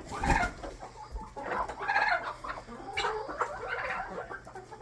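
Laying hens clucking in a coop, several short calls in a row over a steady low hum.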